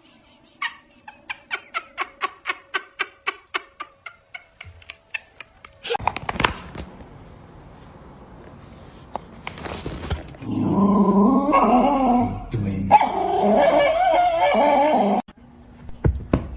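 A dog barking and vocalizing loudly in two long stretches in the second half, after a run of regular ticks, about three a second, at the start.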